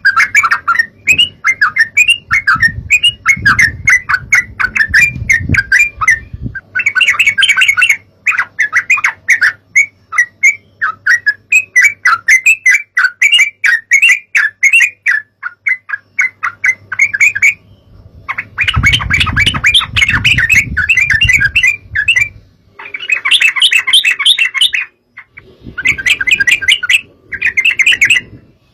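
Yellow-vented bulbuls (trucukan) chattering: a dense run of rapid, bubbly calls from several birds at once, with short breaks about two-thirds of the way through and again near the end. A low rumble lies under some stretches.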